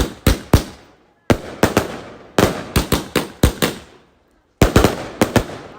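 Fireworks going off in rapid strings of sharp bangs, about three or four a second, with short pauses a little after one second and again around four seconds in.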